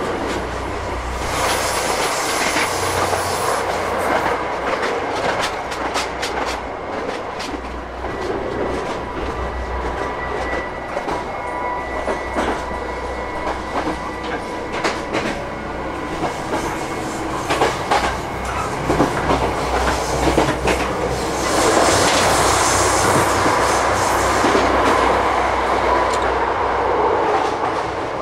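Running noise heard inside a KTR8000 diesel railcar at speed: a steady rumble with wheels clacking over rail joints. It gets louder for a couple of seconds shortly after the start and again for several seconds late on.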